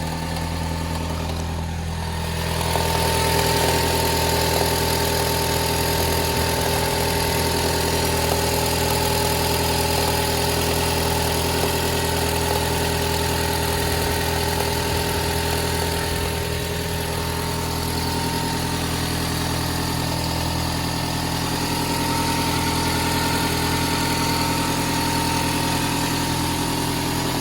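Toyota 5S-FE 2.2-litre four-cylinder engine idling cold, with a crackle in the motor that the owner says appears only on a cold start and fades as it warms up. Its cause is unknown. The engine gets a little louder about two and a half seconds in, then runs steadily.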